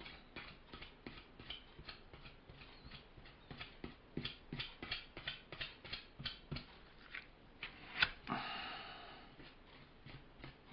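Filling knife dragging and tapping filler into holes in a board: a run of light, irregular scrapes and clicks, with a sharper click about eight seconds in followed by a brief scrape.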